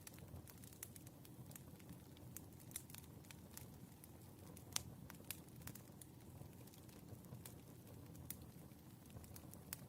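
Burning firewood crackling: scattered sharp pops and ticks, one louder pop a little before halfway, over a soft low rumble of the fire.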